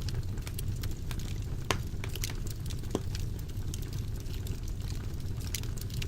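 Wood fire burning in a fireplace: a steady low rumble of flames with frequent irregular crackles and snaps, two sharper pops about a second and a half apart near the middle.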